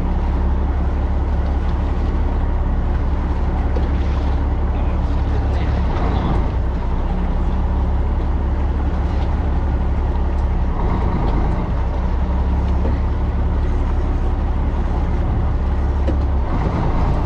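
Fishing boat's engine running steadily with a constant low drone, heard on board with a hiss of wash and wind over it.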